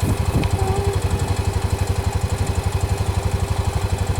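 Engine idling with a steady, even pulse.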